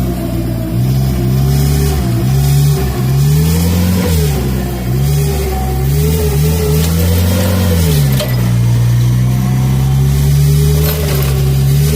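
Forklift's John Deere engine running, its pitch rising and falling through several short revs in the middle, then settling back to a steady speed near the end.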